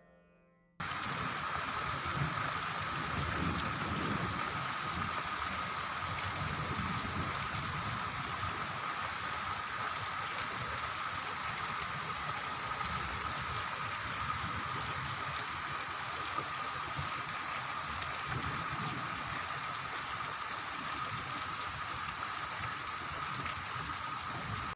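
Heavy rain falling steadily, an even hiss of drops on surfaces, cutting in suddenly about a second in. A faint steady high tone runs underneath.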